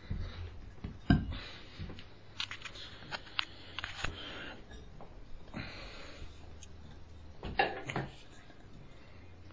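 Handling noises: a scatter of knocks, clicks and rustles, with the loudest knocks about a second in and again around seven and a half seconds in.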